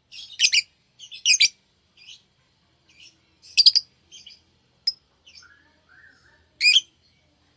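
Pet lovebirds calling: short, sharp, high-pitched chirps and squawks at irregular intervals, with a few softer, lower chirps between the loud ones.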